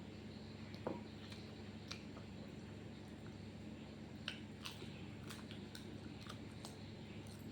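A person chewing food with the mouth close to the microphone: faint, scattered wet clicks and small crunches over a steady low hum.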